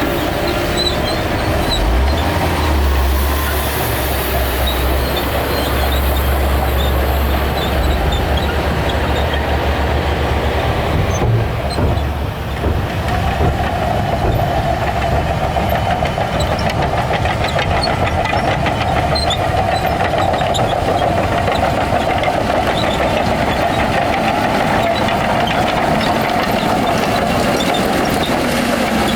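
Heavy diesel earthmoving machinery working with a loud, steady engine rumble. A strong low drone eases off about eight seconds in, and a steadier, higher drone takes over from about halfway through.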